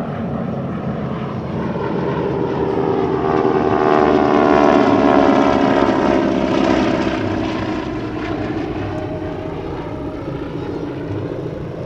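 A formation of North American T-6/SNJ Texan trainers with Pratt & Whitney R-1340 radial engines flying by. The engine and propeller drone swells to its loudest about five seconds in, drops in pitch as the planes pass, and then fades.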